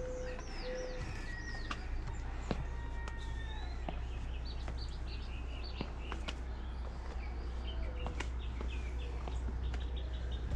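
Several birds chirping and singing, with quick swooping notes and short repeated calls, over a steady low rumble and a few sharp clicks.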